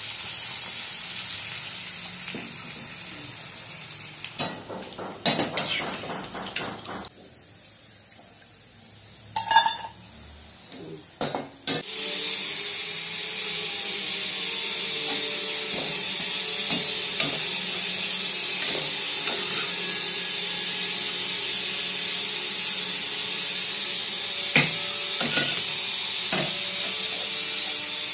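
Food sizzling as it fries in a pan, with metal utensils clinking against the vessel as it is stirred. After a short lull and one ringing metal clink, the sizzling comes back louder and steady, with a few more clinks near the end.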